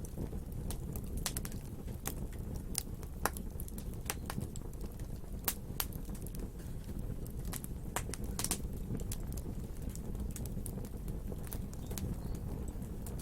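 Wood fire burning: a steady low rumble of flames with irregular sharp crackles and pops from the burning wood. A few louder pops come about five and eight seconds in.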